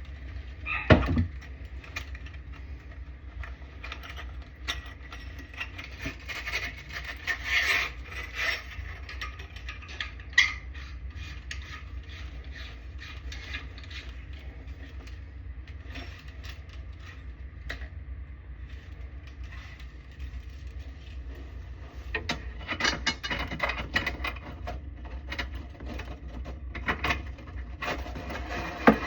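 Hand tools working on a faucet installation: irregular ratcheting clicks, knocks and scrapes, with a sharp knock about a second in and busier spells of clicking around seven to eight seconds in and again from about twenty-two seconds on.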